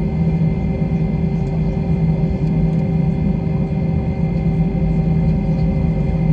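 Jet airliner engines running: a steady hum of several fixed tones over a low rumble, with no rise or fall in pitch.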